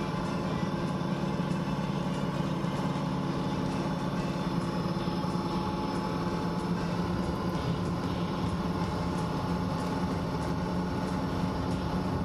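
1937 Ford Model 78's flathead V8 running steadily as the coupe drives along, with road and tyre noise, heard from inside the cab.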